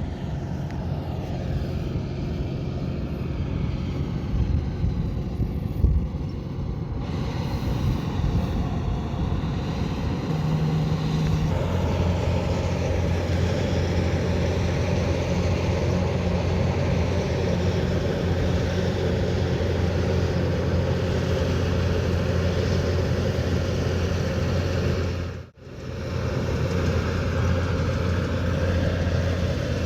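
Kubota DC108X combine harvester running steadily: a low diesel engine drone with the noise of its cutting and threshing machinery. The sound shifts about a third of the way in, becoming a stronger, deeper hum, and drops out for a split second about 25 seconds in.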